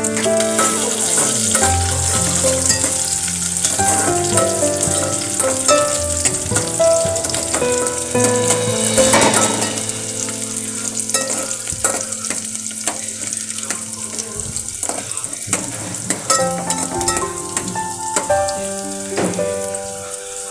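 Sliced onions and green chillies sizzling as they fry in oil in an aluminium pot, with a spoon stirring and clinking against the pot. Instrumental background music plays under it.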